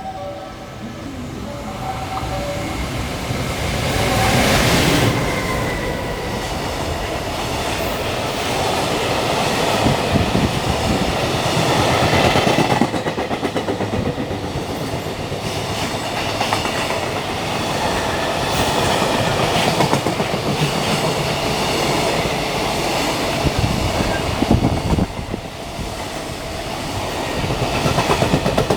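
Freight train running past at speed: wagon after wagon rolling by, with a steady rush of wheels on rail and a repeating clickety-clack over the rail joints, loudest about four seconds in.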